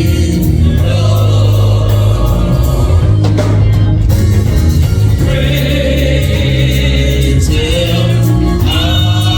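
Gospel choir and congregation singing a hymn, with organ or keyboard accompaniment holding sustained chords over a strong bass line.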